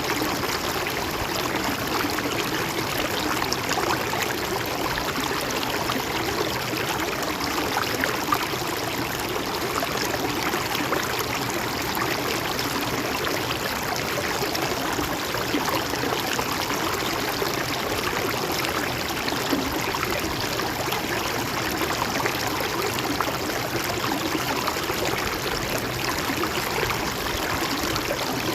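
A stream flowing steadily over stones, with a continuous trickling and babbling of water.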